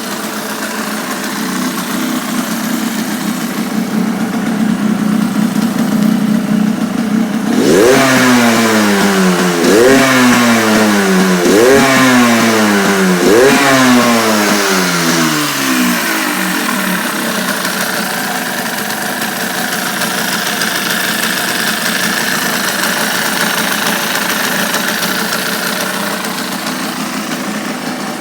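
Yamaha DT200R two-stroke single-cylinder engine idling, then blipped four times about two seconds apart starting about eight seconds in. Each blip rises sharply and falls back, and then the engine settles back to a steady idle.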